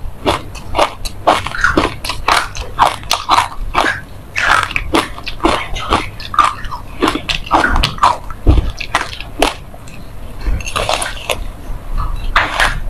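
Close-miked chewing of a sesame-seed-coated bar: rapid, crisp crunches as the seeds break between the teeth, with a fresh bite near the end.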